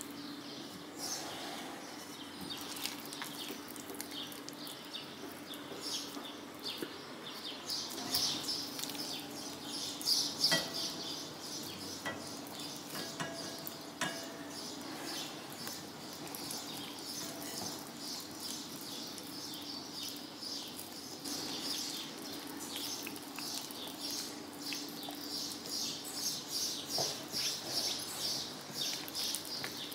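Wet no-knead olive bread dough being stretched and folded by hand in a glass bowl: a steady stream of small sticky, crackling clicks, growing more rhythmic towards the end. A few light knocks against the glass bowl around the middle.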